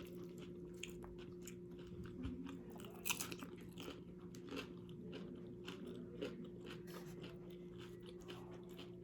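A person chewing food close to the microphone, with soft, quiet crunches and wet mouth clicks throughout and a sharper crunch about three seconds in. A steady low hum runs underneath.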